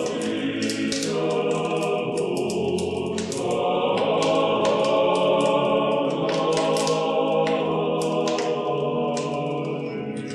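Closing music: a choir singing sustained chords.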